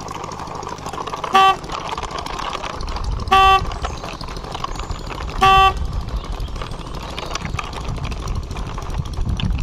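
Horn tooting three short times, about two seconds apart, while a toy quad bike is pushed along by hand, over a steady low rumble.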